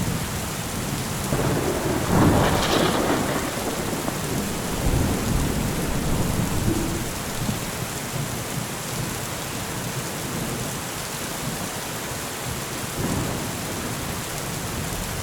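Steady heavy rain with rolls of thunder; the loudest thunderclap swells and rumbles about two seconds in, with fainter rumbles later.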